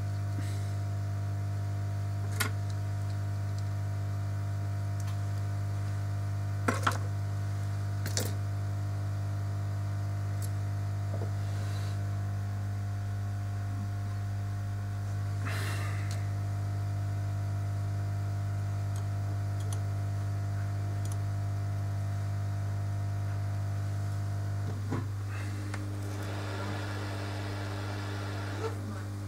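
Steady low electrical hum from bench equipment, with a few small sharp clicks and taps; a soft rustling hiss joins in near the end.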